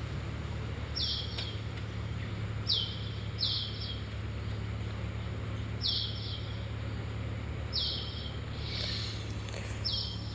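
A bird chirping: about half a dozen short, high, downward-sliding chirps at irregular intervals of one to two seconds, over a steady low hum.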